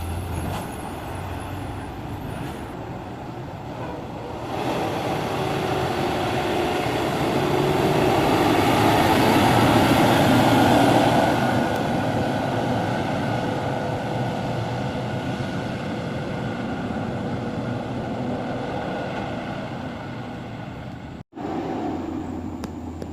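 Heavily loaded diesel dump truck driving past, its engine growing louder to a peak about ten seconds in and then fading away. The sound cuts out for an instant near the end.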